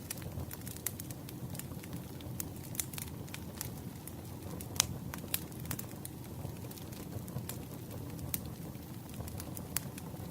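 Campfire burning: a steady low rumble of flames with irregular sharp crackles and pops of burning wood, one louder pop about five seconds in.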